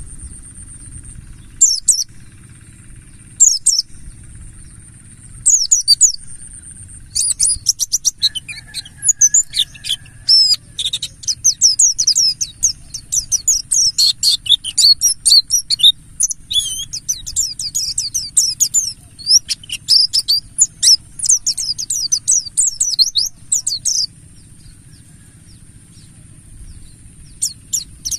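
Pleci buxtoni white-eye song: a few short, high chirped calls, then from about seven seconds a fast, dense run of high twittering chirps that breaks off a few seconds before the end and resumes briefly near the end. A steady high whine and a low hum run underneath.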